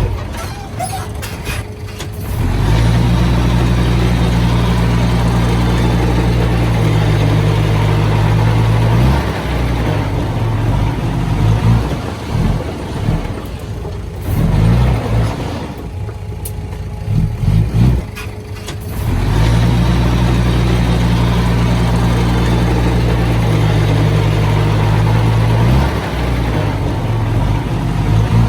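Heavy diesel engine of earthmoving machinery running hard in two long, steady spells, with an uneven, quieter stretch between them.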